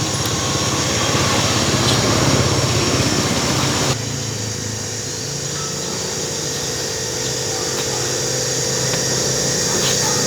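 A machine running steadily with a low hum. About four seconds in its sound changes abruptly: a hiss drops away and a steadier hum with a single held tone carries on.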